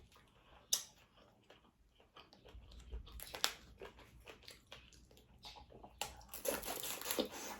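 Close-miked chewing and biting of boiled seafood, with scattered sharp clicks and cracks and a denser, louder run of wet chewing from about six seconds in.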